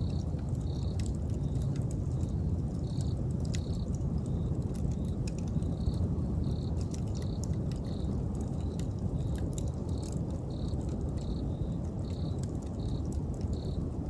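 Wood fire crackling with scattered sharp pops over a steady low rumble, while an insect chirps in short high pulses about one or two times a second.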